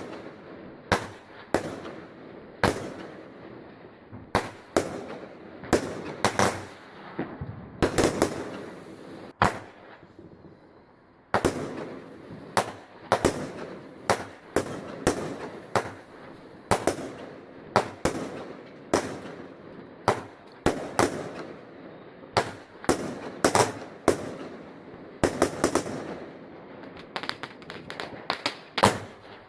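Fireworks going off: an irregular run of sharp bangs, one or two a second, with noisy rumble between them and a short lull about ten seconds in.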